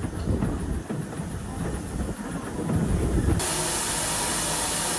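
Steam locomotive Norfolk & Western 475, a 4-8-0: low, uneven rumbling, then about three and a half seconds in a loud, steady steam hiss starts abruptly.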